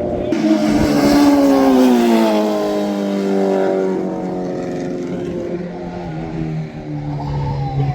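A vehicle drives past at speed. Its engine is loudest about a second or two in, and its note falls steadily as it moves away.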